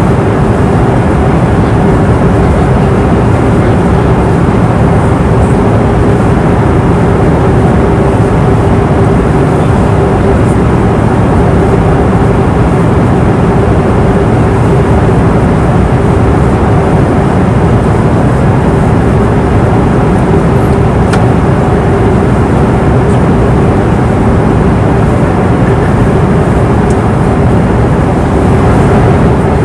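Airliner cabin noise in cruise flight: engines and airflow make a steady low rushing noise, with a constant hum running through it.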